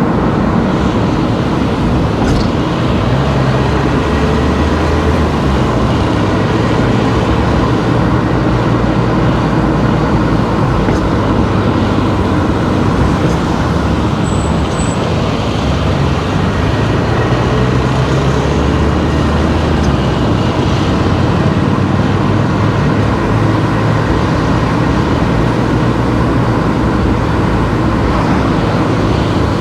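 Car driving on a road: steady tyre and road noise with a low engine hum that rises and falls a little every few seconds.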